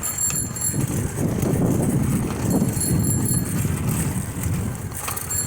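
Rumbling wind and road noise on the microphone of a moving bicycle. A faint high-pitched tone comes and goes three times.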